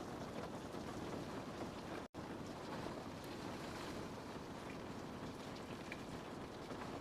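Steady rain on a window pane: an even hiss of falling drops with faint single taps here and there. The sound cuts out for an instant about two seconds in.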